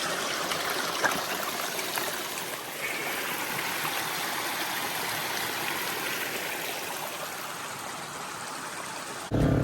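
Water running in a stream, a steady rushing wash with a faint tick or two. Music cuts in just before the end.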